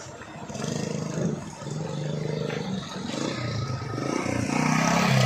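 Heavily loaded truck's engine labouring on a steep climb, its pitch shifting as it works and growing louder toward the end.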